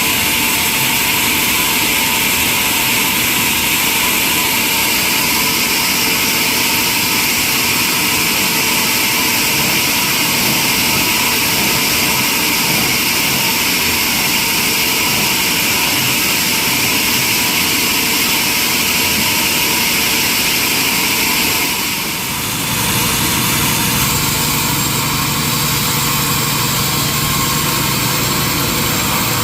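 Sawmill machinery running steadily with a loud, high-pitched hiss. It dips briefly about three quarters of the way through, and a low hum joins after that.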